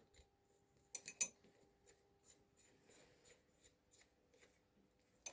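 Near silence, with two short clicks about a second in and a few fainter ticks later: small metal parts being handled as a nut goes onto the lathe's handwheel shaft.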